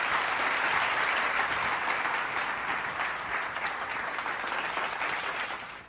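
Theatre audience applauding an actor's entrance on stage: dense, steady clapping that eases slightly and then cuts off abruptly just before the end.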